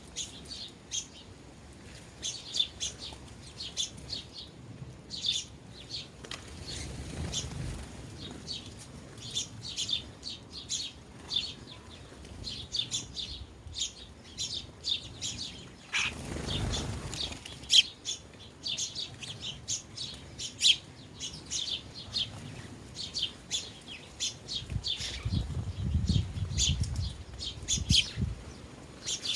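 Flock of sparrows chirping continuously, many short overlapping chirps at the feeders. A few low rushes of noise come through, one about halfway through and a longer one near the end.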